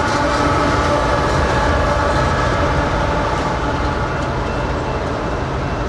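Diesel locomotive at the rear of a double-stack freight train as distributed power, passing close by and pulling away. Its engine drone fades within the first second or so, leaving a steady low rumble of wheels on rail that slowly grows quieter.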